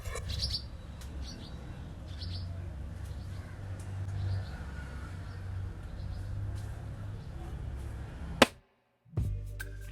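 Faint short bird chirps over a steady low background hum. A single sharp click comes about eight seconds in, followed by a moment of dead silence.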